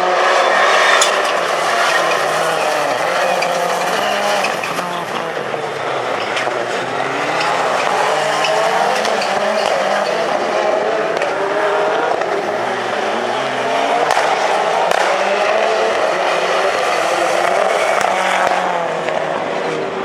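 Rallycross Supercars racing, their engines revving up and dropping back again and again through gear changes and corners, more than one car heard at once at times.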